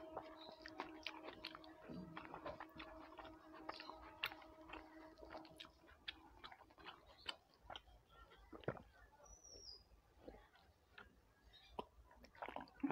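Close-miked chewing and mouth sounds of a person eating rice and curry by hand: soft, irregular wet clicks and smacks. A faint steady hum runs under the first half, and a short high chirp comes about two thirds of the way through.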